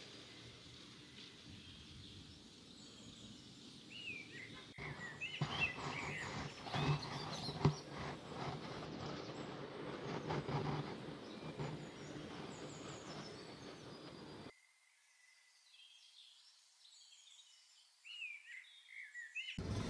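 Birds chirping in short, curving calls over a faint outdoor background with some rustling. The background cuts out suddenly about two-thirds of the way through, leaving only a few faint chirps.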